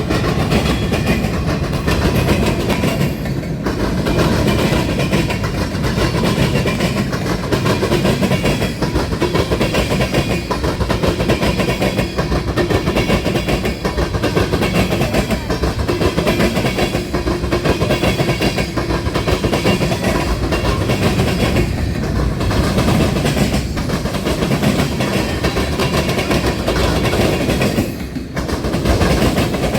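A train rolling past close by: a steady loud rumble of railcars with the wheels clattering over the track.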